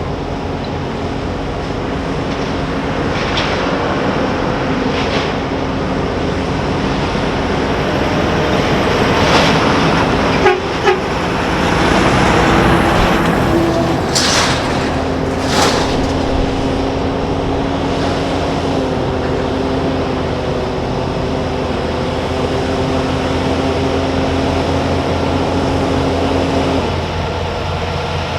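Diesel semi-truck engines running with heavy traffic noise, a steady low hum throughout. About halfway through come two short, sharp hisses.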